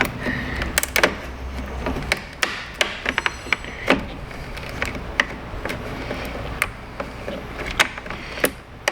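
Scattered sharp clicks and knocks at irregular intervals as plastic clips and a zip tie in a car's engine bay are worked loose by hand, over a steady low hum.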